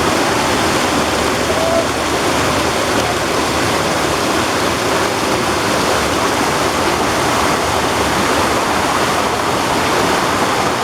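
Waterfall pouring steadily: an even, loud rush of falling water with no breaks.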